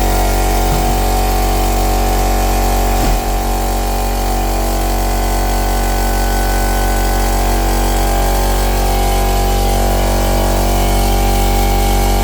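3D-printed inline two-cylinder compressed-air engine running fast and steady, a loud buzzing run with a hiss over it, dipping briefly about three seconds in.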